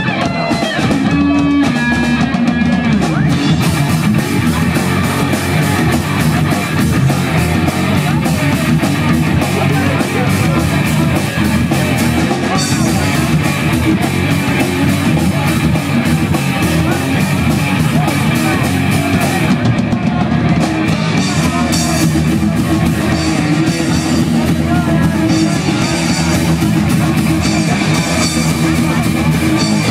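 Live punk rock band playing loud, distorted electric guitars with bass and a pounding drum kit.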